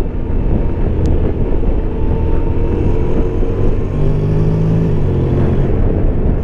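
Honda Forza 750 scooter's parallel-twin engine pulling as the bike accelerates in sport mode, its tone rising gently, under a steady rush of wind and road noise.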